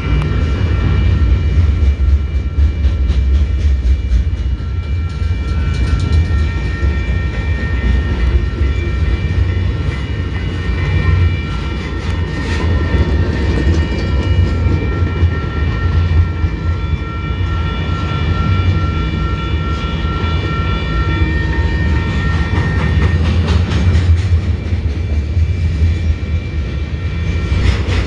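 Freight train of railcars loaded with wind turbine tower sections rolling past: a steady heavy rumble with light clicking from the wheels. A high steady squeal rides over it for most of the time and fades out near the end.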